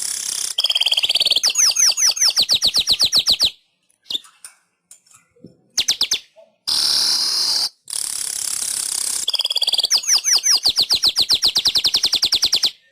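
Manyar weaverbird singing. A loud, buzzy wheeze runs into a fast run of short, down-slurred chattering notes. The phrase is sung twice, with a few scattered notes in the pause between.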